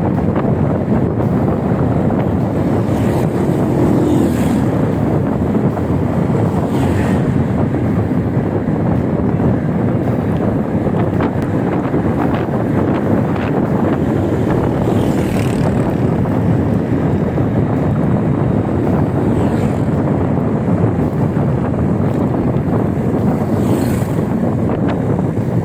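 Wind buffeting the microphone while riding an e-bike: a loud, steady rumble, with a few brief higher whooshes through it.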